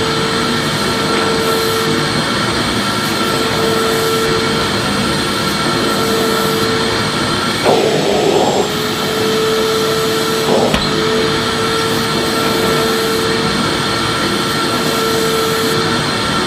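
Vacuum cleaner running steadily: a constant loud rushing noise with a steady motor hum that fades in and out every couple of seconds, and a brief rougher change about eight seconds in.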